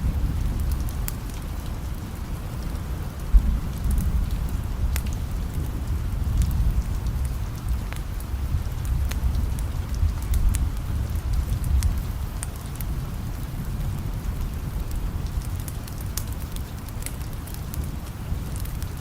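Rain-and-fireplace ambience: steady rain over a constant low rumble, with scattered sharp crackles and pops and one louder pop about three seconds in.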